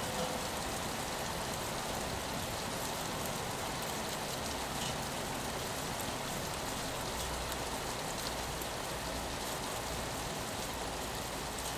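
Steady rain falling on a window, an even hiss with scattered small drop ticks. A faint low hum comes in for a few seconds in the second half.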